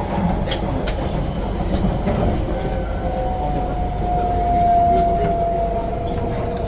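Running noise inside a KSF C151B metro train car on the move: a steady rumble of wheels on the rails with scattered light clicks, and a thin electric motor whine that swells a little in the middle and slowly drops in pitch.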